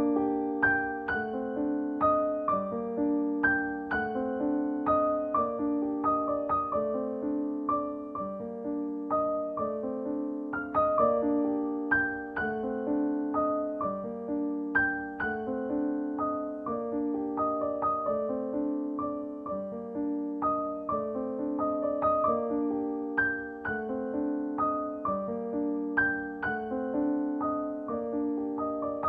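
Solo piano background music: a gentle repeating figure of notes that strike and fade, without a beat.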